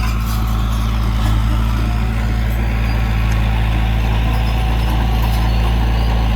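Heavy diesel engine of an earthmoving machine running steadily, a low even drone.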